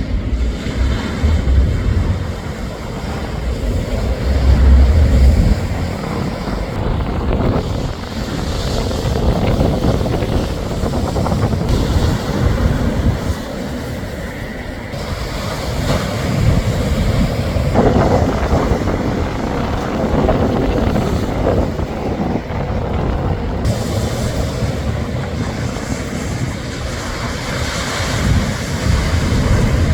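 Strong trade wind blowing across the microphone, with heavy rumbling gusts about four seconds in and again near the end, over the wash of breaking surf.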